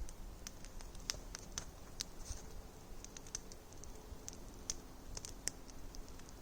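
Wood campfire crackling faintly, with scattered sharp pops and snaps at irregular intervals.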